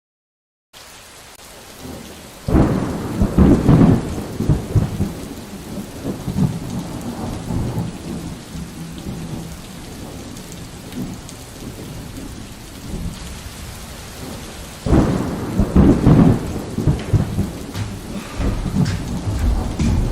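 Thunderstorm: steady heavy rain with two loud peals of thunder, the first about two and a half seconds in and the second about fifteen seconds in, each rumbling on for a few seconds.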